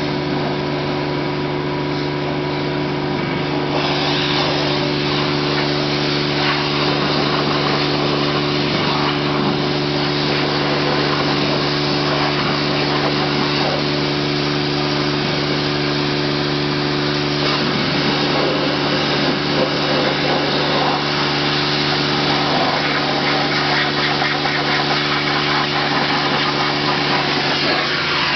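Automatic car wash machinery running: a steady motor hum under a loud rushing hiss that grows louder about four seconds in.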